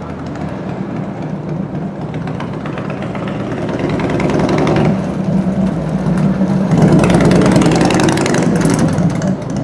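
1997 Harley-Davidson Heritage Softail Classic's carbureted Evolution V-twin running, revved up twice: once around the middle and again, louder, near the end, settling back each time.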